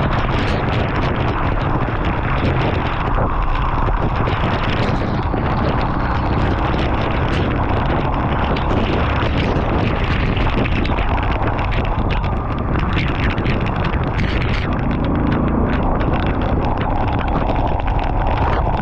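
Wind buffeting the microphone of a motorbike rider at speed, a loud steady rush with the bike's road and engine noise underneath.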